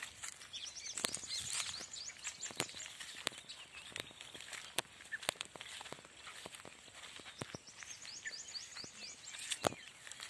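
Forest ambience of small birds chirping in quick runs of short, high notes, busiest about a second in and again near the end, with scattered sharp clicks.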